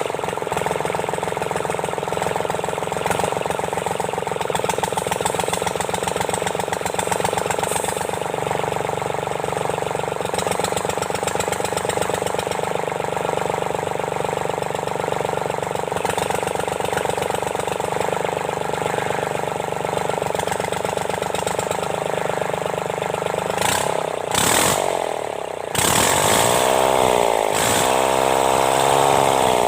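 Sunshine L1-255 tractor's D1462 three-cylinder diesel engine running steadily after its valve seats and piston rings were replaced. About 24 seconds in the sound dips and breaks, then the engine speed swings up and down.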